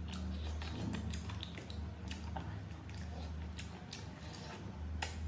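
Close-up eating sounds: a person biting and chewing chicken meat off the bone by hand, with irregular wet smacks and clicks, over a steady low hum.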